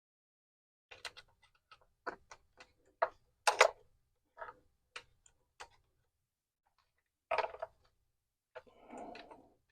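Small metal clicks and knocks of hand tools and parts working at the fuel injector clips on the engine's fuel rail: a dozen or so separate sharp clicks, the loudest about three and a half seconds in, and a brief rustling noise near the end.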